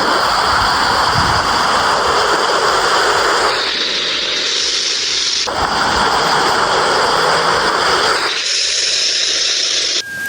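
Strong wind and heavy rain in a storm, a loud, steady rushing hiss that shifts abruptly in tone several times.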